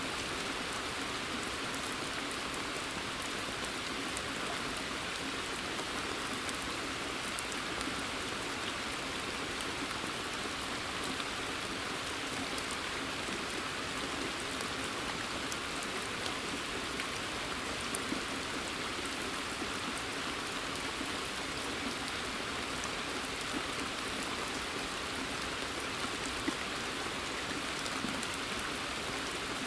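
Steady rain falling in a forest, onto the surface of a pond, an even hiss with a few single louder drop ticks, one about 18 seconds in and another near the end.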